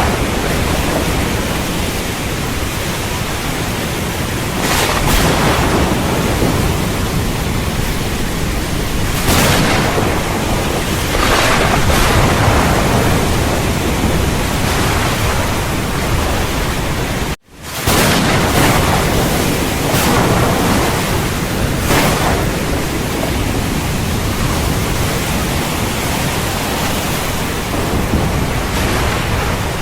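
Steady heavy rain with thunder: a continuous rush of rain with several short louder swells. The sound cuts out for a split second about halfway through.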